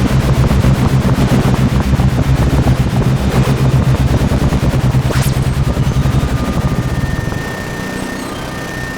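Erica Synths Black System III modular synthesizer playing a low drone chopped into a rapid pulse, with rising swells of noise every couple of seconds. Near the end the pulsing fades and thin, steady high tones come in.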